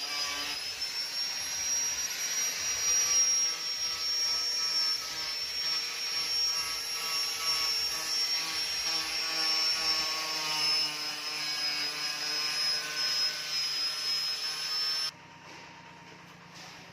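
A motor-driven machine running with a steady high-pitched whine over a mix of lower steady tones. It cuts off abruptly about fifteen seconds in, leaving a faint hum.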